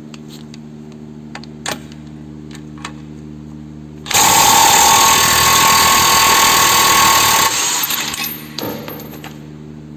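Impact wrench hammering for about three seconds, starting about four seconds in and cutting off suddenly, on the front suspension and hub of a car being stripped for a CV axle replacement.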